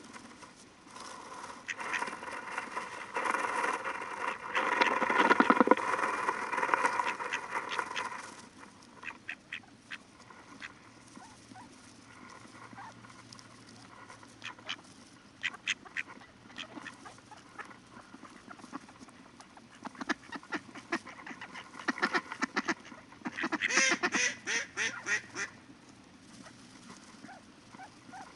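Ducks quacking in two long rapid bouts, one peaking a few seconds in and another about twenty seconds in, with scattered single quacks between.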